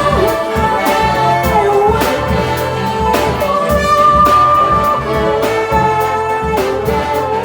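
Jazz big band playing an instrumental passage between vocal lines: held ensemble chords over a steady drum beat.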